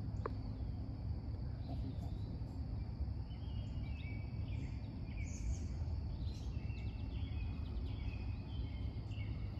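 Birds chirping, short calls repeating again and again, over a steady low rumble of background noise.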